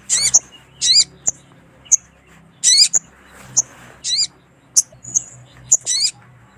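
Little spiderhunter (sogok ontong) calling: five brief, wavering notes that fall in pitch, with sharp high chips between them.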